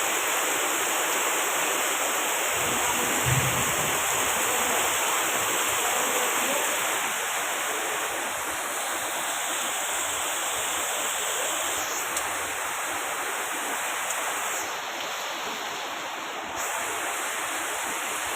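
Steady rainfall, an even hiss without breaks.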